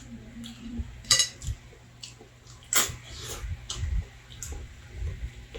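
Mealtime eating sounds: about half a dozen sharp, scattered clinks of cutlery and dishes, the loudest about a second in and near three seconds in.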